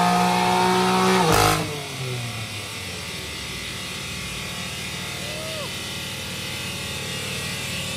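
BMW M4's twin-turbo inline-six runs at full throttle on a chassis dyno, its note rising in pitch. About a second and a half in there is a single loud bang as the throttle closes, the kind of pop the burble tune is set up to make. The revs then fall away and the sound settles into a lower, steady rumble.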